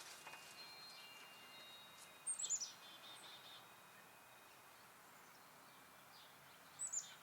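A small songbird at a backyard feeder calling twice, about two seconds in and again near the end: each call is a quick run of high notes falling in pitch, then a few lower repeated notes.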